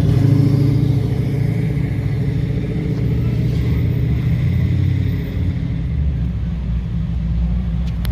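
Classic car engine running at low speed as the car drives slowly past, a deep steady engine note whose pitch shifts about five seconds in.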